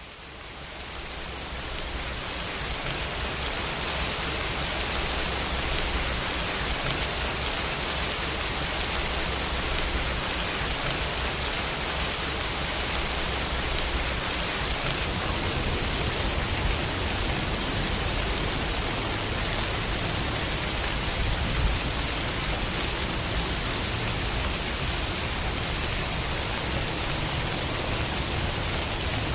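Steady, even hiss of heavy rain falling, fading in over the first couple of seconds.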